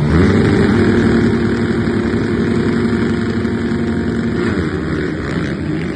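Motocross bike engine revving up and held at steady high revs, then easing off near the end.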